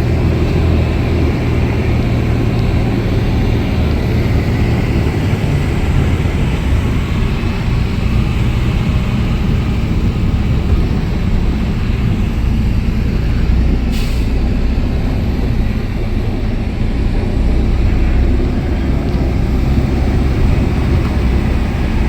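Tipper truck's engine running steadily with a low, heavy drone. A single sharp click comes about two-thirds of the way through.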